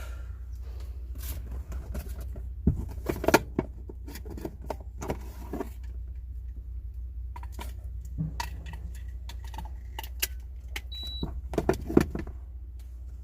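Scattered metallic clinks and knocks of tools and parts being handled, loudest in clusters about three seconds in and again near the end, over a steady low hum.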